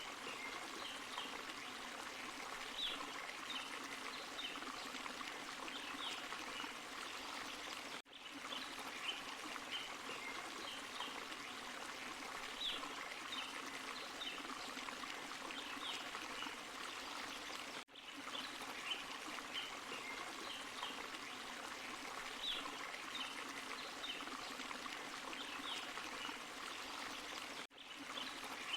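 Small forest waterfall and stream running steadily, an even rush of water with light splashing and trickling, broken by brief dips in level about every ten seconds.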